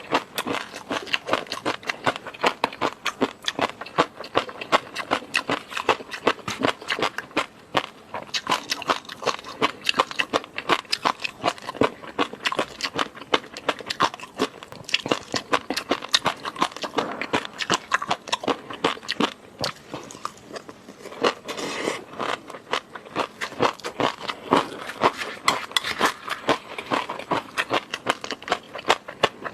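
Close-miked mouth sounds of eating: a dense, continuous run of small wet clicks and smacks from chewing.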